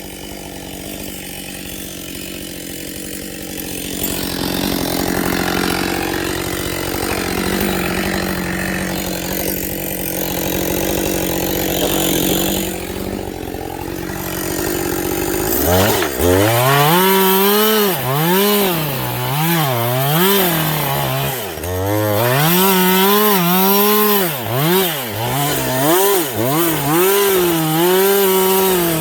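Husqvarna 562 XP two-stroke chainsaw cutting wood with a dull chain. For about the first fifteen seconds it runs steadily under load, then the engine speed rises and falls over and over, about once a second, as the saw bogs and frees in the cut.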